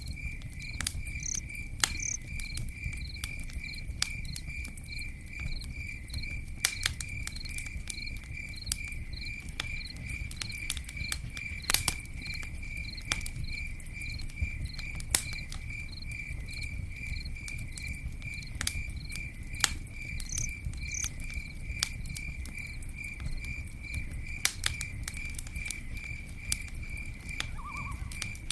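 Campfire crackling with scattered sharp pops over a low, steady rumble, while a cricket chirps steadily in a high, even pulse, about three chirps a second.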